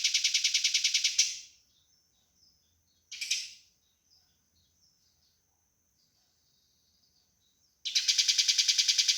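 Eurasian tree sparrow giving a fast, tightly packed run of harsh fighting chirps, several a second. It breaks off about a second in, gives one short burst around three seconds in, and starts again near the end.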